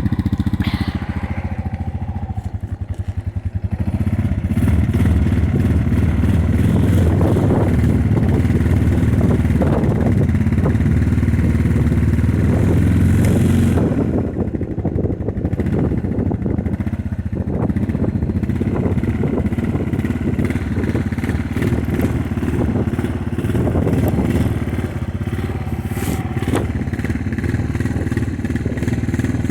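Four-wheeler (ATV) engine running after a choked cold start at about 10°F. It gets louder as the revs come up about four seconds in, eases back around fourteen seconds, and then rises and falls unevenly.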